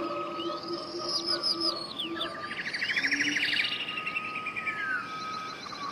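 Several wild birds singing, with repeated chirps and slurred whistles and a fast trill of rapid notes about halfway through. Faint steady tones hum underneath.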